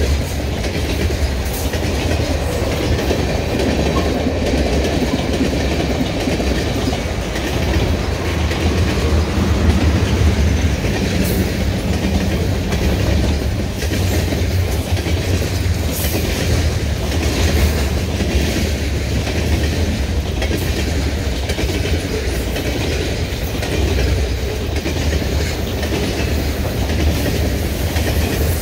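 Covered hopper cars of a Canadian Pacific freight train rolling steadily past close by, with a continuous low rumble and wheels clicking now and then over the rail joints.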